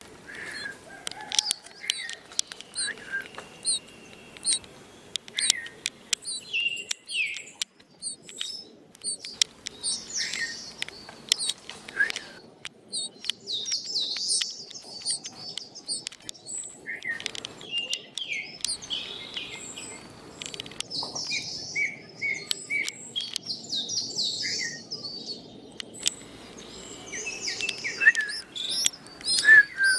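Small birds chirping and twittering: many short, high calls, some in quick runs, with a few sharp clicks between them.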